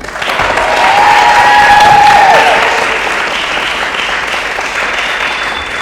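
Audience applauding, with a few voices cheering in the first two seconds or so; the clapping swells quickly, peaks about two seconds in, then settles into steady applause.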